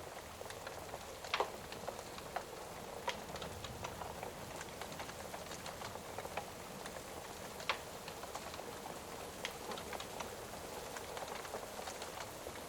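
Steady rain with scattered sharp pops and crackles from a wood fire, a few of them louder than the rest.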